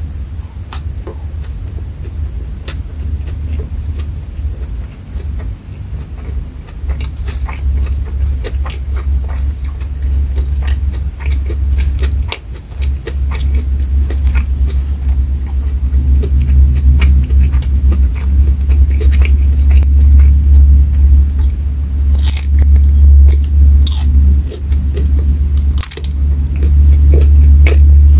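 Close-miked eating: chewing and crunching a mouthful of rice, fried shrimp and raw vegetables, with many short wet clicks and crunches that grow louder in the second half, over a steady low rumble.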